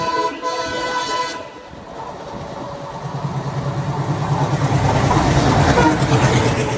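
WDM-3D diesel locomotive's horn sounding, cutting off about a second and a half in. Then its ALCO engine grows louder with a throbbing beat and rising wheel-and-rail noise as it comes through at speed.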